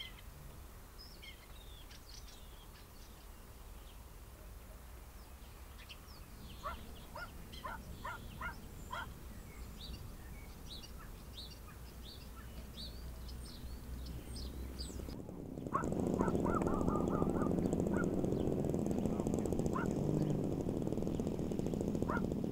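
Small birds chirping in quick short calls over a low, steady rumble. About two-thirds of the way through the sound changes abruptly to a much louder steady rumbling noise with a low hum, with a few more chirps over it.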